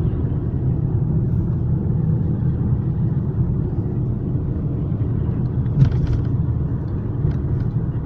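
Steady low road and engine rumble of a moving car, heard from inside the cabin, with one short knock about six seconds in.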